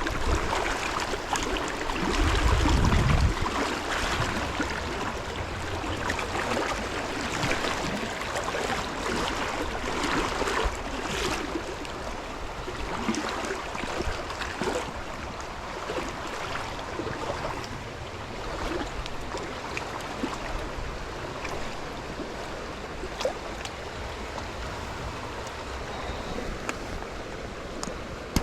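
Flowing stream water, a steady rush with small splashes and ticks throughout. A loud low rumble about two to three seconds in.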